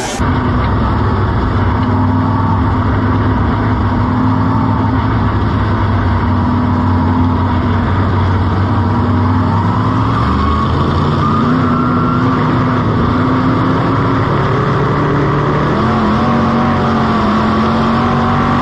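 Dirt-track modified race car engine running hard, its pitch rising and falling as it accelerates and lets off. It cuts off suddenly at the end.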